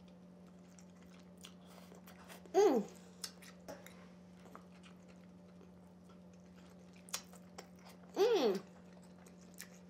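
Close-miked eating of soft king crab meat dipped in alfredo sauce: chewing with small wet mouth clicks, and two short pleased moans that fall in pitch, about two and a half and eight seconds in. A faint steady hum runs underneath.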